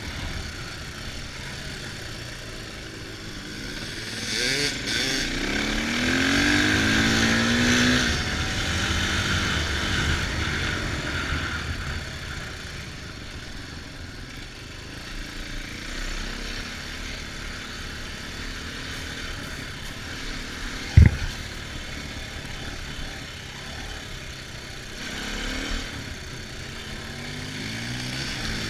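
Dirt bike engine riding off-road, revving up with rising pitch through the gears about four to eight seconds in, where it is loudest. It then runs on more steadily and revs again near the end. A single sharp knock about 21 seconds in is the loudest moment.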